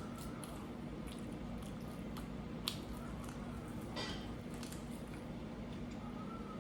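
A person chewing and eating with wet mouth sounds and short clicks and smacks, over a steady low hum.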